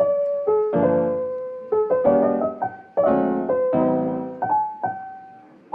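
Background music: solo piano playing a slow, gentle melody over chords, each note struck and fading.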